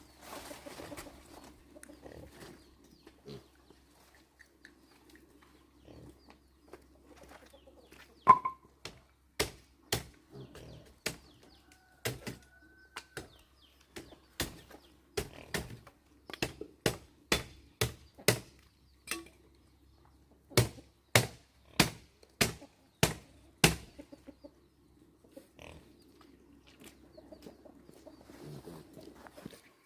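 A series of sharp knocks, one or two a second, from about a third of the way in until two-thirds through, like a hand tool striking repeatedly during building work. A faint low murmur comes before and after the knocks.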